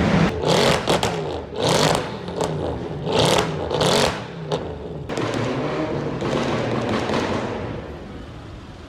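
A car engine being revved hard several times, its pitch climbing and falling with each blip, with loud rasping bursts on the revs; the engine settles down near the end.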